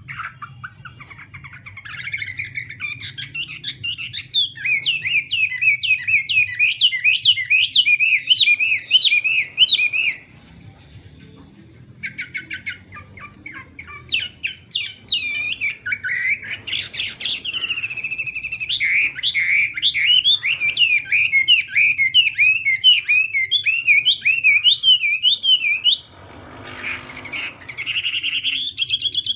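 Chinese hwamei singing long runs of fast, constantly varied warbling phrases. The song pauses for about two seconds around ten seconds in, and a brief noise comes just before the song resumes near the end.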